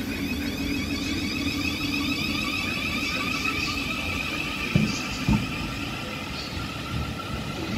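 Thameslink Class 700 electric train accelerating away from the platform: a whine of several held tones over a rumble of wheels on the track. Two short thumps come about five seconds in.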